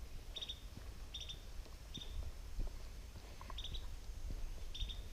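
A bird giving short, high chirps, often doubled, about once a second. Under it are faint, regular footfalls and a low wind rumble on the microphone.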